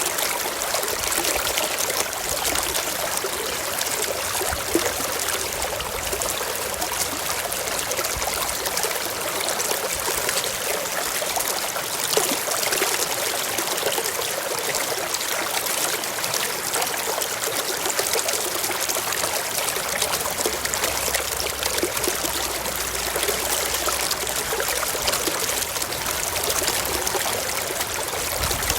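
Forest stream flowing over rocks, a steady babble with many small splashes and trickles.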